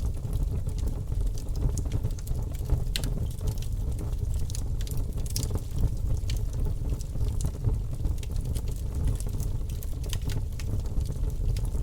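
Wood fire crackling in a fireplace: a steady low rumble of the flames with frequent sharp crackles and pops.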